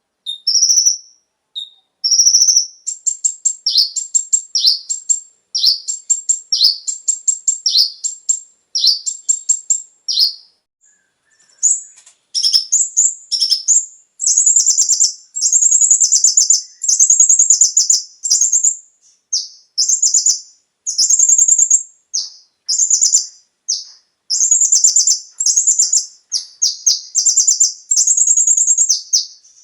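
Kolibri ninja (a sunbird) singing: high, rapid chirping phrases, broken by a short pause about ten seconds in and then running on as fast, dense twittering.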